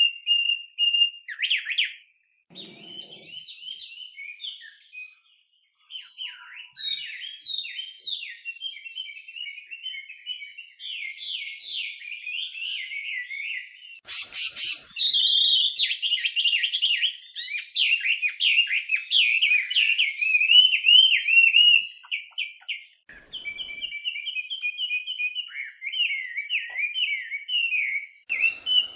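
Chinese hwamei (melodious laughingthrush) singing a long, varied song of rapid whistled phrases, with brief breaks about two and six seconds in. It grows louder and denser from about halfway through.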